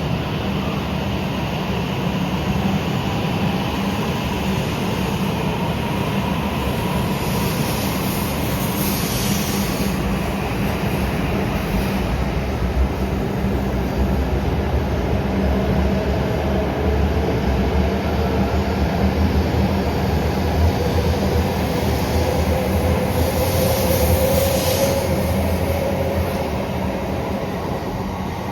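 Coupled E8 and E5 series Shinkansen trainset pulling out of the station and picking up speed: a steady rumble of wheels on rail, with traction motor whine slowly rising in pitch. A hiss swells twice, a few seconds in and again near the end.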